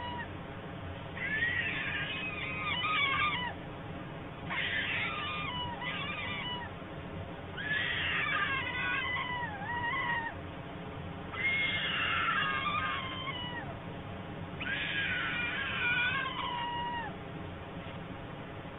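A bird calling in repeated phrases, five in all. Each phrase is about two seconds of sliding, warbling notes, and they come roughly every three and a half seconds.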